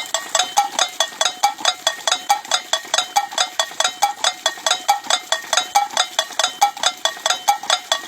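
Bird and rat repeller device for a rice field giving off a fast, even train of short pitched chirps or clicks, about five or six a second, without a break.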